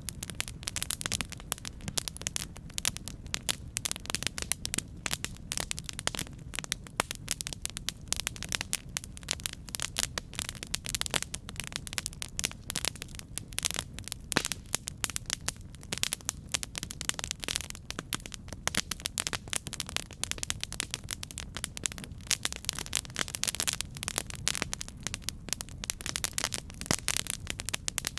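Wood campfire burning with dense, irregular crackling and popping over a steady low rumble of the flames.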